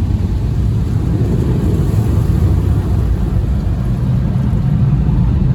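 PDQ Laserwash 360 touchless car wash running its flash dry stage, heard from inside the car's cabin as a loud, steady low rumble that builds slightly at the start and then holds.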